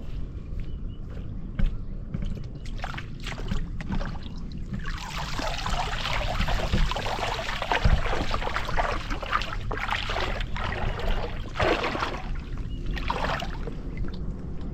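Water splashing and washing around a small boat in swelling, uneven surges, strongest from about a third of the way in until near the end, over a steady low rumble.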